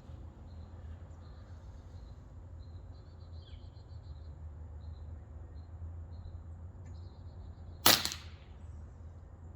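A single shot from an Umarex Gauntlet PCP air rifle, a sharp crack with a short tail, about eight seconds in. It is a test shot from the freshly rebuilt rifle with its new regulator.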